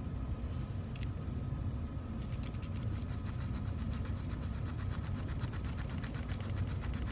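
A hand file scraping a groove into 14k gold sheet in rapid, even back-and-forth strokes, starting about two seconds in, over a steady low hum.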